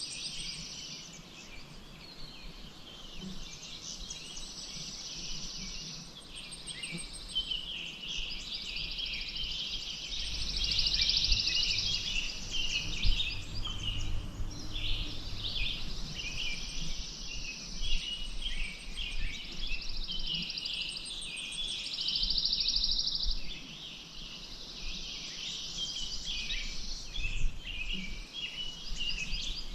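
Many small birds chirping and singing at once in a dense, continuous chorus. A high buzzing trill, a couple of seconds long, comes and goes several times.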